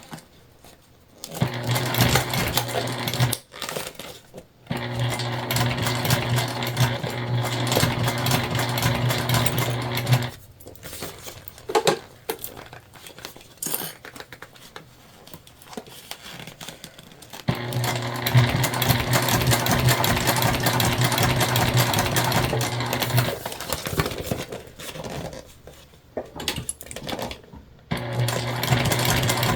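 Domestic sewing machine stitching bias binding onto the edge of a vinyl bag. It runs in four stretches of about two to six seconds each, with quieter pauses between them filled with small handling clicks as the work is shifted.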